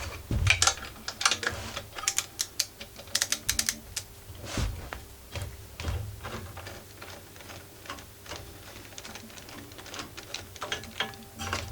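Ratchet wrench clicking in short, irregular runs while small screws on a generator's exhaust muffler are worked loose, with light metal clinks and one louder knock about four and a half seconds in.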